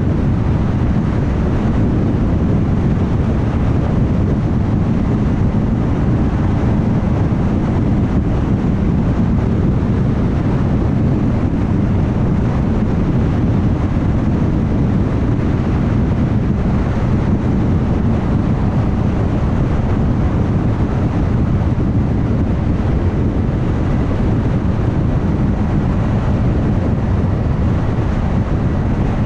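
Steady tyre roar and wind rush of a car travelling at highway speed.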